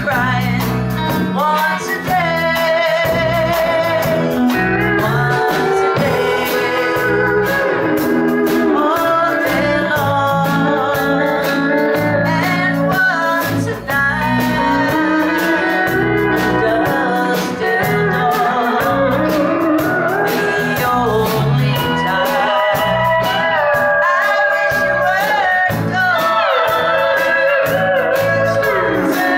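Country band playing live: guitar and a sliding lead melody over bass and drums with a steady beat.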